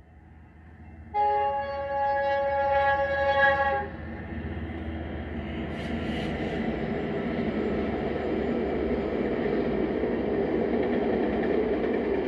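Train horn sounds one long blast of about three seconds, several tones at once, starting about a second in. It is followed by the steady rumble of the train rolling past.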